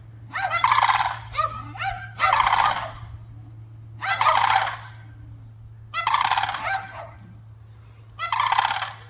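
Fowl calling: about six loud, harsh, rattling calls, each under a second long, coming every one and a half to two seconds.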